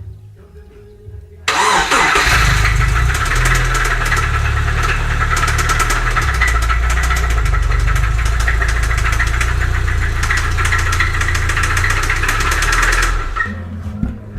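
Subaru EJ25D 2.5-litre flat-four engine starting about a second and a half in and running for about eleven seconds with a rapid, regular knock: rod knock from a worn connecting-rod bearing. It stops shortly before the end.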